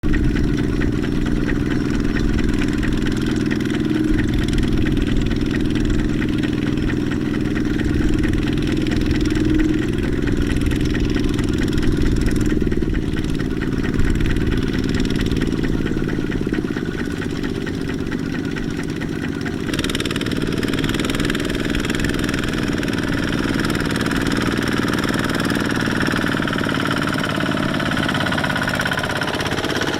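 Kubota mini tractor's diesel engine running steadily. About twenty seconds in, a harsher, higher-pitched clatter joins the engine sound.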